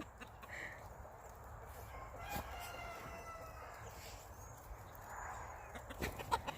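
Rooster crowing, faint, about two seconds in.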